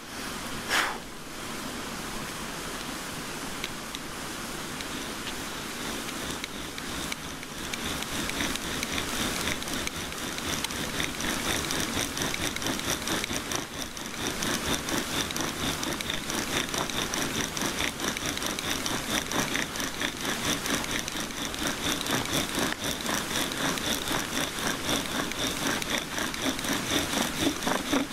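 Wooden bow drill spindle squealing in the hearth board as the bow is sawn back and forth, burning in a new depression; the squeal starts about eight seconds in and grows louder, over steady rain.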